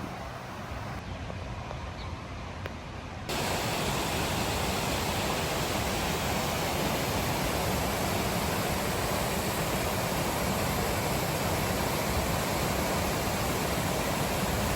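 Water of a small waterfall rushing, a steady even noise that jumps suddenly louder a little over three seconds in.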